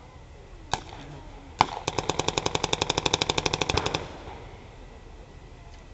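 Two single gunshots about a second apart, then a long burst of rapid automatic fire, roughly a dozen rounds a second for about two seconds, from a re-enactor's automatic weapon firing blanks.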